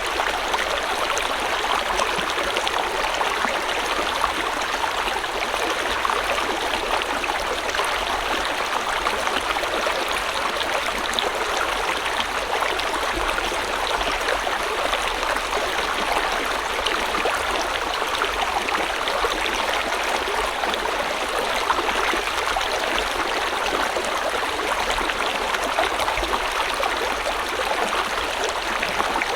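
River water flowing over rocks: a steady rushing and splashing with small gurgles, unchanging throughout.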